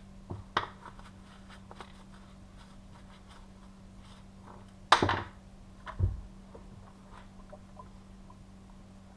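Hands handling a Poulan 2000 chainsaw with its cover off: a few light clicks and scrapes, a sharp knock about five seconds in, then a dull thump about a second later, over a faint steady hum.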